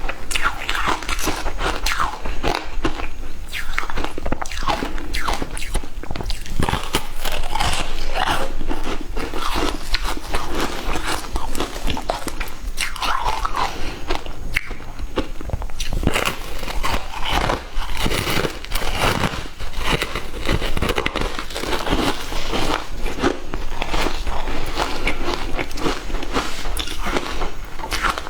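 Matcha ice being bitten and chewed: dense, continuous crunching and cracking as the ice breaks between the teeth.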